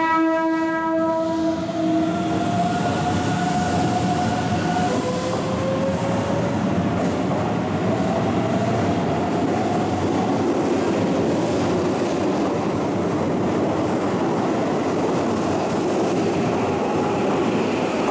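Keihan electric train sounding a short horn blast, then pulling away. Its motor whine rises in pitch in two long steps as it accelerates, over steady wheel and rail noise.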